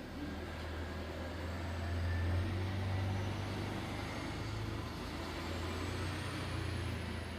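A low, steady engine hum, like a motor vehicle running, swelling about two seconds in and then easing back.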